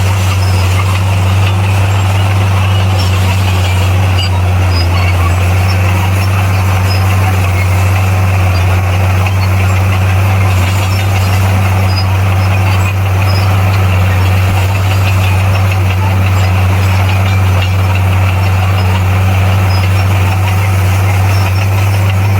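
Heavy earthmoving machine's diesel engine running steadily at an unchanging pitch, with a deep, even hum.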